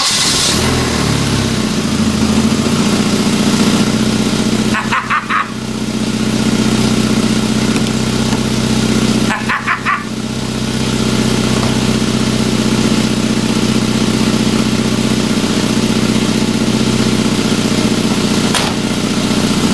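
1993 Volvo 940 Turbo's engine running at a steady idle, just started again and settling in the first couple of seconds, now fed by a newly replaced fuel pump with no fuel leak. The steady engine sound is briefly broken twice.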